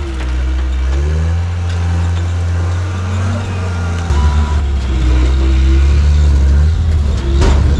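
Diesel engine of a John Deere 323D track skid steer running under load, its pitch rising and falling as the machine works, growing louder about four seconds in. A sharp crack sounds near the end.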